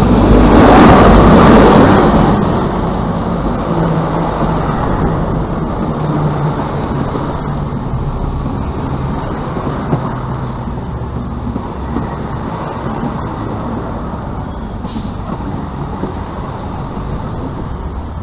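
InterCity 125 High Speed Train passing close by. The class 43 power car goes by with a loud rush in the first two seconds, then the steady rumble and wheel clatter of the Mark 3 coaches follow, slowly fading.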